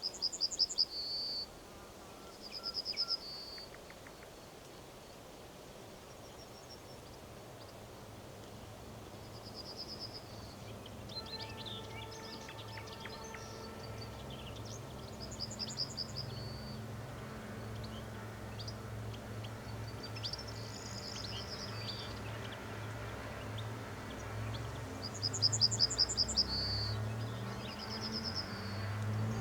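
A small bird singing short, fast trills, repeated every few seconds. From about a third of the way in, a low steady hum rises slowly underneath and grows louder toward the end.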